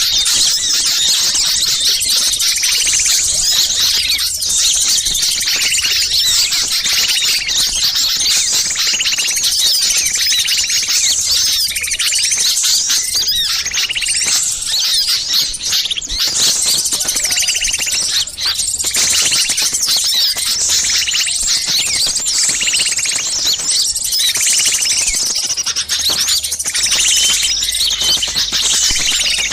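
Many small songbirds chirping and twittering at once in a dense, unbroken chorus, with one lower call repeating every second or two. It is a bird-lure recording of agitated ('ribut') small birds, the kind of mobbing clamour played to draw wild small birds in.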